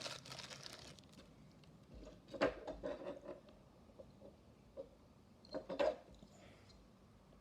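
Handling noise from unwrapping and checking a loose diecast toy car: wrapping crinkles briefly at the start, then two short clusters of clicks and light knocks, about two and a half and six seconds in.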